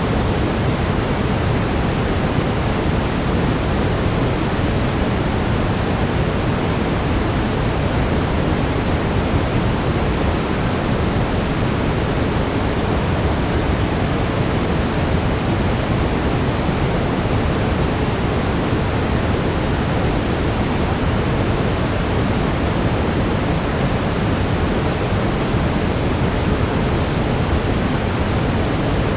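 Steady synthetic brown noise, a deep, even rushing hiss that does not change.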